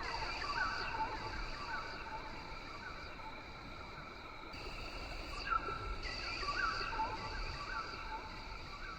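Rain forest ambience: insects keep up a steady high buzzing that cuts in and out, while a bird repeats short rising chirps in two runs, one near the start and one past the middle.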